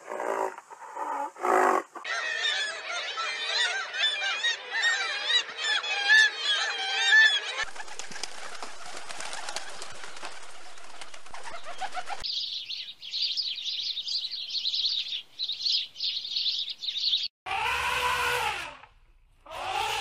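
Birds calling: a dense chorus of warbling chirps, then a few seconds of steady hiss, then rapid high-pitched chirping. Two short arching calls come near the end.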